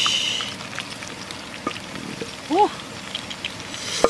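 Chopped chillies and aromatics dropping into a wok of hot oil: a burst of sizzling at the start that dies away within about half a second, followed by light knocks of the knife against the board. About two and a half seconds in comes a short animal cry that rises and falls in pitch, and near the end a sharp knock.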